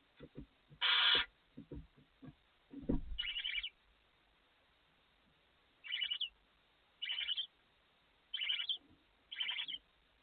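Barn owls in a nest box: a harsh hissing screech about a second in, a few soft thumps of movement, then five short chittering calls spaced about a second apart.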